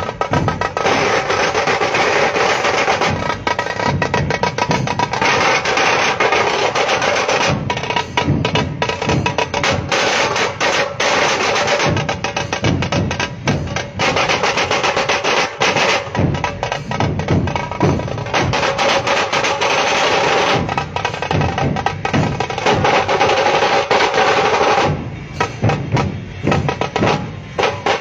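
Fast, loud drumming with rolling strokes, with a steady tone running underneath. The sound thins out briefly about 25 seconds in.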